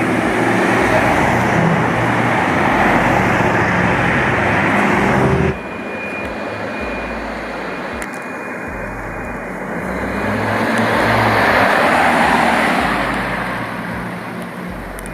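Road traffic: cars passing on a city street. About a third of the way in the sound drops suddenly to a quieter street, where another vehicle swells past and fades away.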